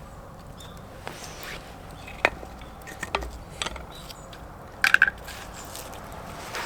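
A few sharp knocks and clicks at irregular moments, the loudest a brief cluster with a short ringing clink about five seconds in.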